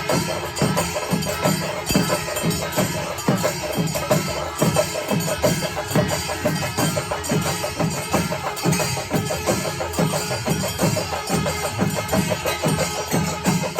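Panchari melam: a Kerala temple ensemble of stick-beaten chenda drums with ilathalam cymbals, playing a steady, even beat.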